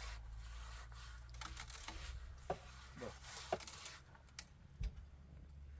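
Scattered light clicks and taps, about half a dozen over a few seconds, over a low steady hum.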